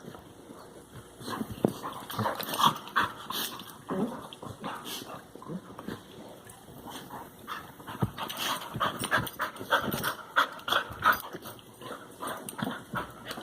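Two Labrador retriever puppies making noises at each other as they play, a stream of short, irregular calls.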